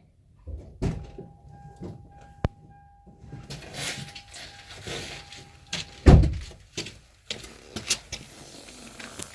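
Car door being handled with the engine off: clicks and knocks, a steady tone from about one to six seconds in, then a heavy thump about six seconds in as the door shuts, followed by a few lighter knocks.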